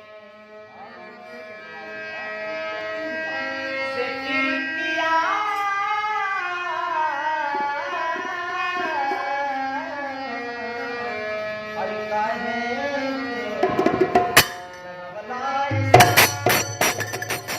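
Purvi folk song music: a wavering, sliding melody line over accompaniment, then bursts of fast hand-drum strokes near the end.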